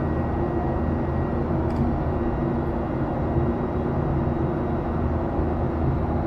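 Boeing 737-800's CFM56 engines and airflow heard inside the passenger cabin: a steady, even drone with a low hum.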